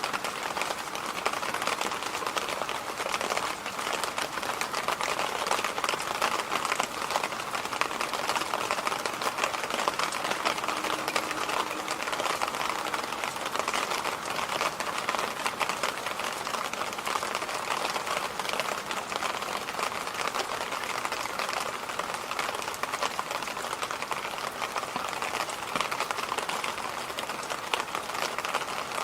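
Electric fan running steadily: an even rushing noise with a fine, fast crackle in it.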